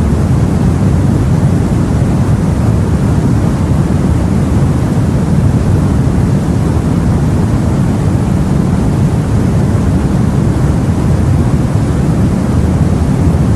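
Steady, deep rushing of the sea as heard from a boat, an even low-pitched noise with no distinct wave breaks.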